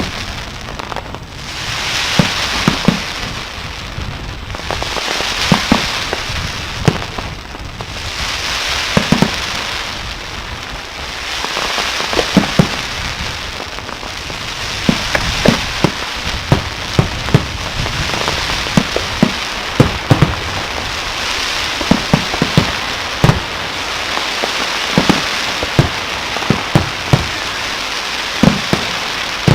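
Aerial fireworks display: a dense crackling hiss that swells and fades in waves every few seconds, with many sharp bangs from exploding shells scattered irregularly through it.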